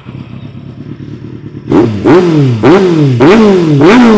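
2014 Kawasaki Z800's inline-four engine, just started and idling through a Scorpion slip-on exhaust. Less than two seconds in, it is revved in four quick throttle blips about half a second apart, each rising and falling back.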